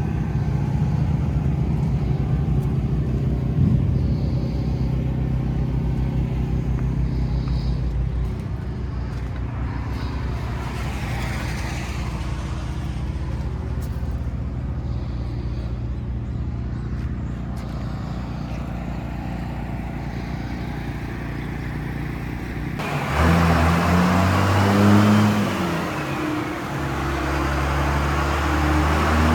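Diesel pickup engines idling with a steady low rumble. About 23 seconds in the sound changes abruptly, and an engine revs up and drops back before settling into a steady idle.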